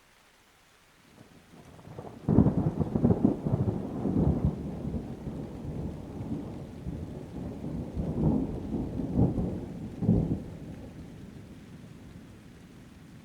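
A thunderclap over steady rain: a low rumble builds about a second in and breaks into a sharp crack a little after two seconds. It rolls on with repeated peaks, surges again between about eight and ten seconds, then dies away into the faint hiss of the rain.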